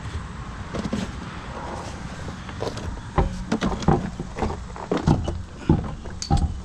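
Scattered knocks and clunks of a truck wheel and tire being handled and offered up to the hub, coming several a second in the second half, over a steady low hum.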